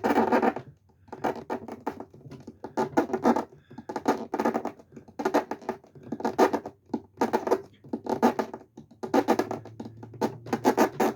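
Fingertips pressed hard and dragged across a 1970s furniture surface, giving a run of squeals about one a second.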